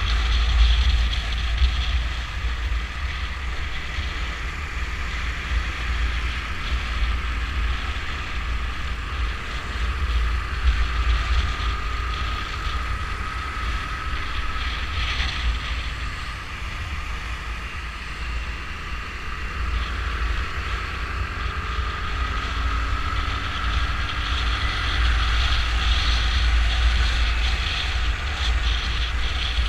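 Wind rumbling hard on the microphone of a moving motorcycle, with the engine and road traffic running underneath; faint rising and falling engine notes come and go.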